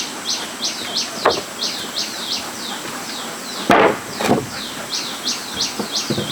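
A bird calling a long, rapid run of short descending chirps, about three a second, over a faint steady high whine. A few sharp knocks cut in, the loudest a little under four seconds in.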